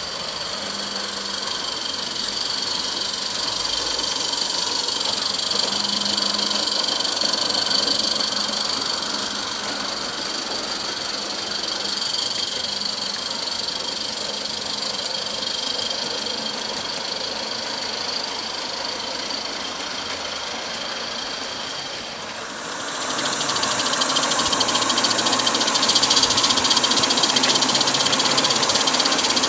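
16mm-scale live steam garden-railway locomotive running, a steady hiss and rapid chuffing. About 22 seconds in the sound dips briefly, then comes back louder and busier.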